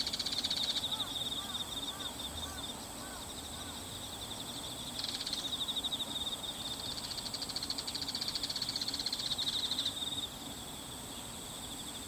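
Bull-headed shrike calling, not its high-pitched autumn territorial call, over a steady chirring of insects. A few short calls come between about one and three seconds in, and a long burst of rapid pulsing runs from about five to ten seconds.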